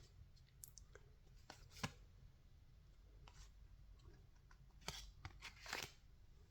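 Near silence, broken by a few faint, short clicks and rustles of baseball trading cards being handled and slid past one another, mostly about two seconds in and near the end.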